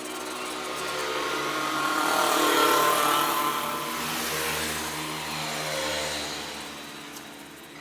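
A small machine motor running with a steady hum, growing louder to a peak about three seconds in and then easing off.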